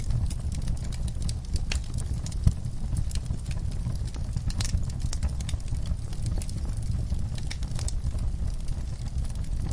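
Wood fire burning in a fireplace: irregular crackles and pops over a steady low rumble, with one sharper pop about two and a half seconds in.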